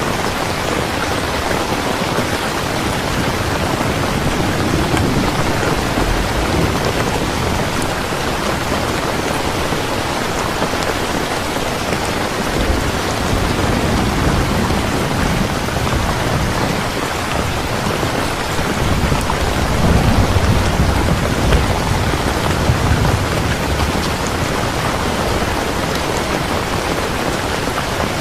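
Steady rain falling, with low rolling rumbles of thunder swelling up a few times, the loudest about two-thirds of the way through.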